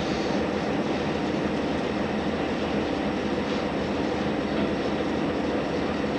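Steady running noise heard inside a JR Hokkaido H100 DECMO diesel-electric railcar underway: an even rumble of wheels on rail and the running gear, with no clear rise or fall in speed.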